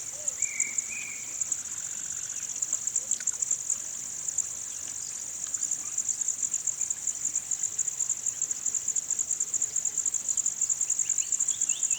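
Insects chirring in a steady, rapidly pulsing high trill, with a few brief bird chirps at the start and again near the end.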